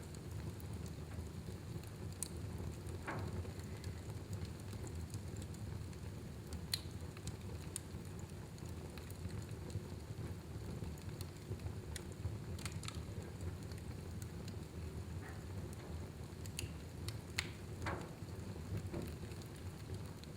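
Fire burning in a fireplace: a steady low rumble of flames with irregular sharp crackles and pops scattered through it.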